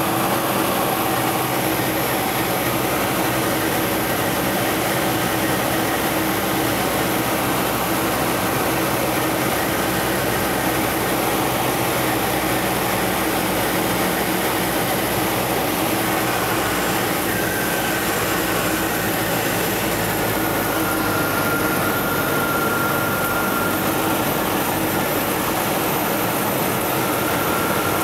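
Cessna 172 floatplane's piston engine and propeller running steadily, at an even level with no change in power.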